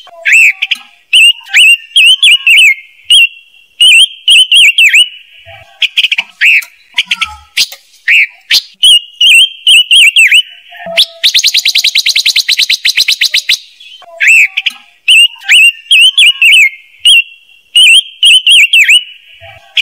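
Silver-eared mesia calling loudly, as on a lure recording for trapping: short phrases of quick, down-slurred whistled notes, repeated again and again. Partway through, a fast buzzy rattle lasts about two and a half seconds.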